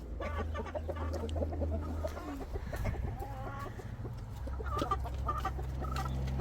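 Backyard hens clucking, with short repeated calls throughout, over a steady low hum.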